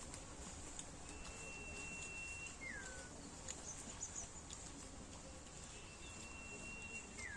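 A bird calling twice: each call is a long, level whistled note followed at once by a short falling note.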